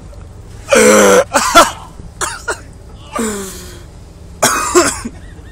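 Four short, loud wordless vocal outbursts from a person, harsh and throaty, the first and third sliding down in pitch.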